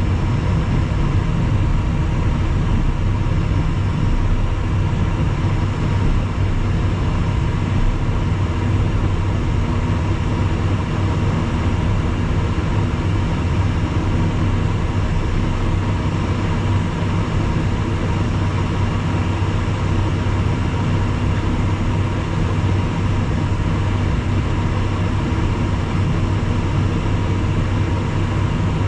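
Steady cockpit noise of a Cessna Citation Mustang: its twin turbofan engines drone with a constant low hum and unchanging level.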